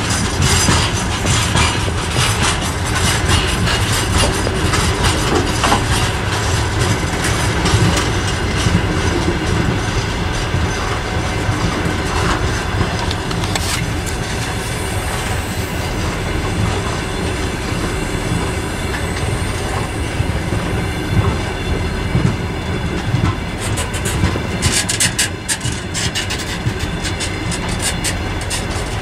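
Freight train of open-top gondola wagons rolling past close by: steady rumble of wheels with a rhythmic clickety-clack over the rail joints. A flurry of sharp, high metallic squealing and clattering from the wheels comes a few seconds before the end.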